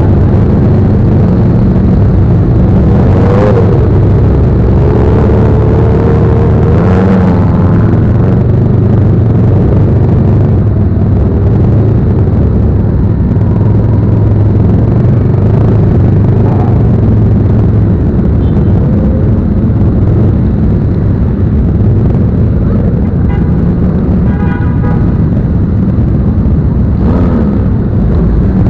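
Motorcycle engine running on the move under a heavy, loud low rumble, its pitch rising and falling over the first several seconds. A vehicle horn sounds briefly late on.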